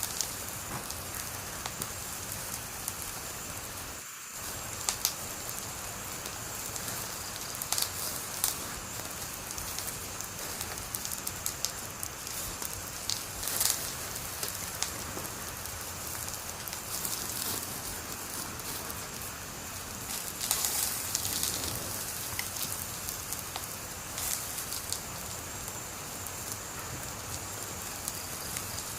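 Wood fire burning with a steady hiss and scattered sharp crackles and pops, a few of them in quick clusters.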